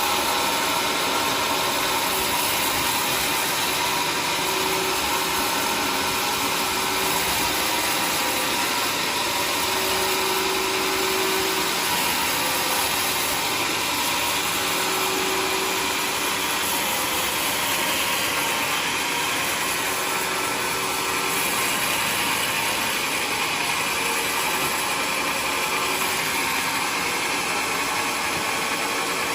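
Homemade sawmill running steadily, its engine driving the blade through a waru log, a constant dense sawing noise with no let-up.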